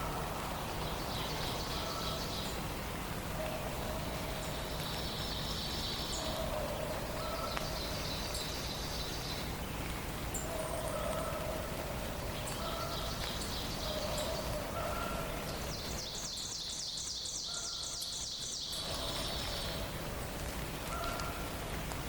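Forest dawn chorus: a songbird repeatedly sings a rapid high trill, each lasting a second or two, every few seconds. Shorter, lower calls from other birds come and go, over a steady background hiss.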